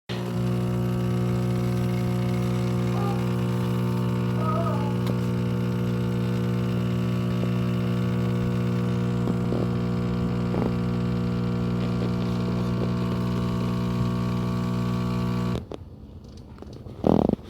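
Philips 3200 Series fully automatic coffee machine running with a steady low hum that starts abruptly and cuts off suddenly about fifteen seconds in.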